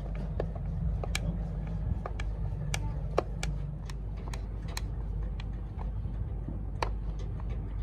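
Irregular sharp clicks and light taps, roughly one or two a second, over a steady low rumble.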